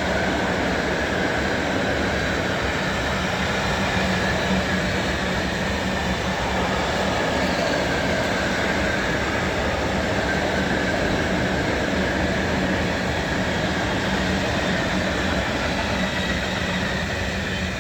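Train passing on an electrified main line: a steady rolling noise of wheels on rail with a steady hum under it, starting to fade right at the end.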